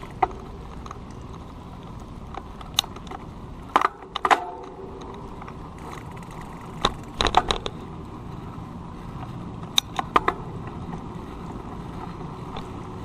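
Road bicycle rattling and clicking in short clusters of sharp metallic clatters over a steady low rumble of tyres and wind.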